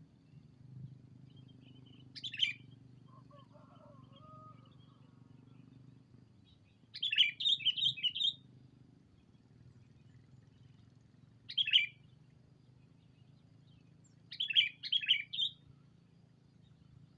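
Sooty-headed bulbul calling in four short bursts of quick, bubbly chirps, the second and last bursts longest. A fainter, lower warble comes between the first two bursts.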